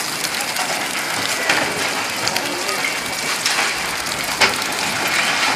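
Heavy rain pouring down, a loud steady hiss with sharp drops striking close by, the loudest hit about four and a half seconds in.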